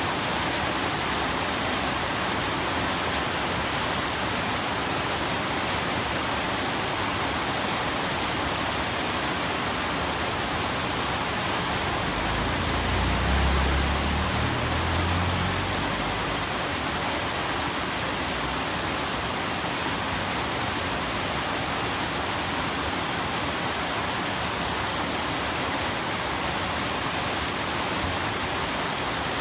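Steady heavy rain, an even rushing hiss, with a brief low rumble about halfway through.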